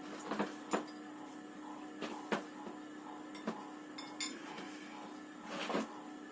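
Cutlery clinking against dishes while food is served: about seven sharp, separate clinks, the last one near the end longer, like a scrape. A low steady hum runs underneath.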